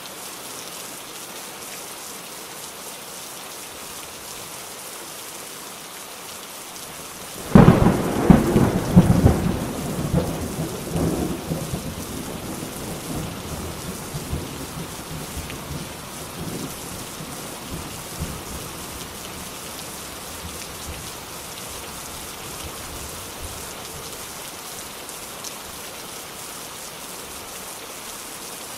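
Steady rain falling, with a sudden loud thunderclap about a third of the way in that rumbles on and slowly fades over about ten seconds.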